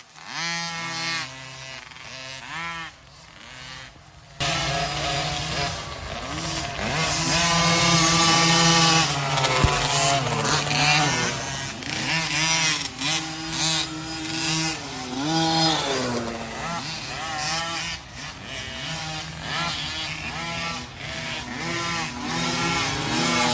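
Small 50cc two-stroke dirt bike engines revving through the woods, their pitch rising and falling as riders throttle and pass, louder from about four seconds in.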